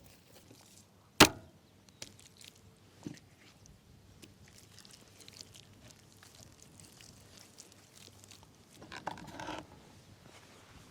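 A single sharp knock about a second in, much the loudest sound, then two fainter knocks and a short burst of rustling near the end.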